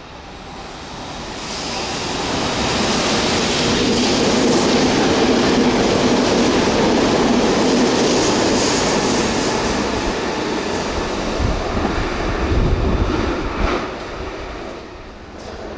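Meitetsu express electric train passing at high speed: the rush of wheels on rail builds over the first couple of seconds, stays loud for about ten seconds with a thin high whine early on and a heavier rumble near the end, then falls away.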